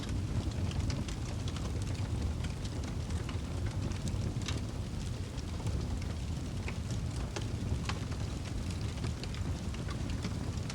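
Wood fire burning in a fireplace: a steady low rumble of flames with scattered crackles and pops throughout.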